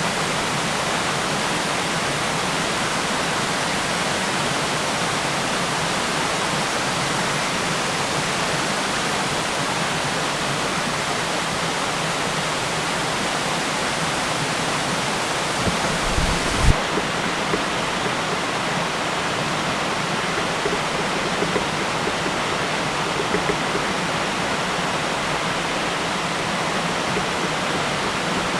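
Waterfall rushing: a steady, even roar of falling water close to the microphone. A brief low bump about halfway through.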